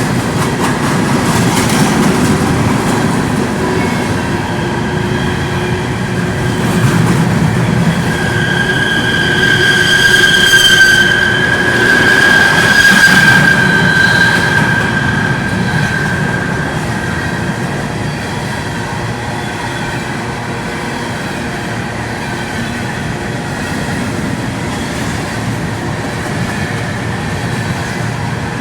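A train rolling past with its wheels squealing on the rails over a steady rumble. The high squeal swells to its loudest about a third of the way in and then fades back.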